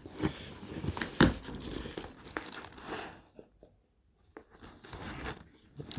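Packaging crinkling and rustling as it is handled, in a run of short crackles, broken by a second or so of near silence in the middle.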